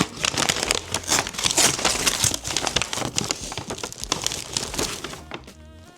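Plastic packaging crinkling and rustling steadily as it is handled, dying down near the end.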